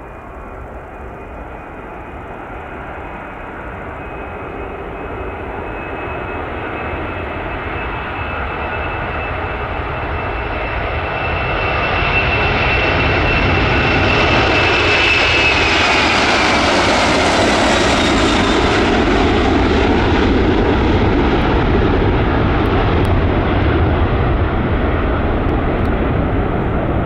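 Boeing 747-400's four jet engines at take-off power, growing steadily louder for about twelve seconds as the jet approaches, then a loud steady rumble. A high whine over it drops in pitch past the middle as the aircraft goes by.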